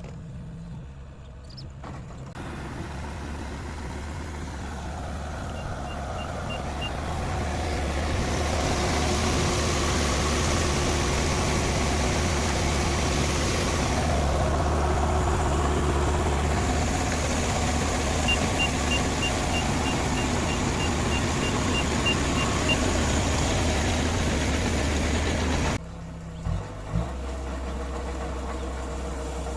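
Kubota combine harvester running, its engine and machinery growing louder over the first several seconds and then holding steady. A high reversing alarm beeps in two short runs. Near the end the sound drops suddenly to a quieter steady engine hum, with two short knocks.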